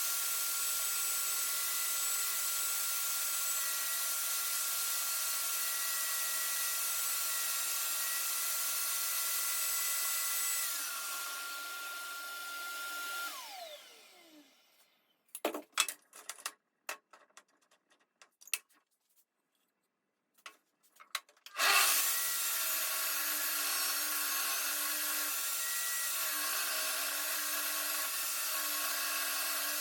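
Electric woodworking machine running steadily while cutting wood. About 13 seconds in it is switched off and winds down with a falling whine; a few knocks and clicks of handling follow, then it starts up again and runs steadily.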